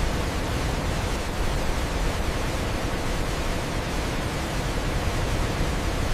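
Waterfall: a steady, dense rush of falling water with no breaks.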